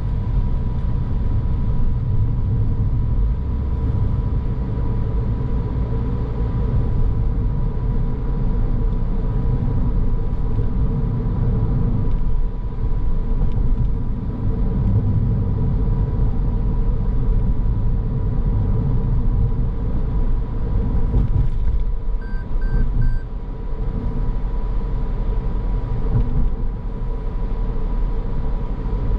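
Car driving along a road: steady tyre and engine rumble with a thin constant whine. About 22 seconds in, three short high beeps sound quickly one after another.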